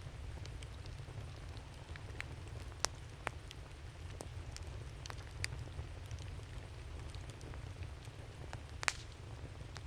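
Wood campfire crackling: scattered sharp pops and snaps of burning wood over a steady low rumble, with the loudest pops about three seconds in and near the end.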